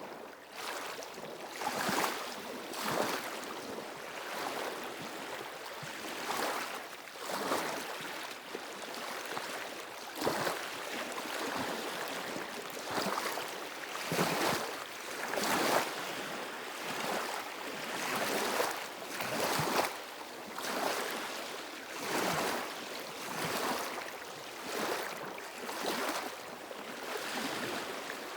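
Small waves washing in on a stony shore, one short wash about every second, each swelling and fading.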